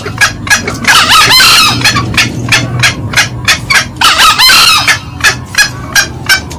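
Green junglefowl lure calls: a steady run of short clucking notes about three a second, with a cock's crow twice, about a second in and again about four seconds in.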